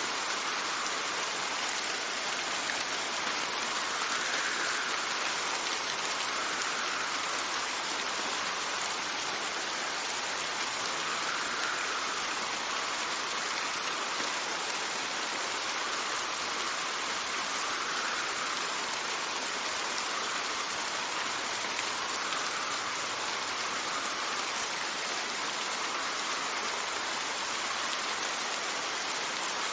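Steady rain falling, with a soft swell every few seconds.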